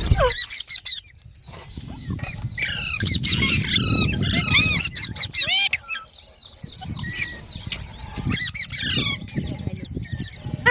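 Green rose-ringed parakeet (Indian ringneck) calling: shrill, quickly rising and falling squawks and chirps in several bouts with short gaps.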